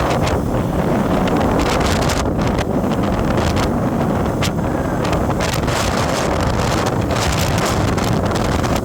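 Wind buffeting a microphone on a moving vehicle, over a steady rumble of road and engine noise.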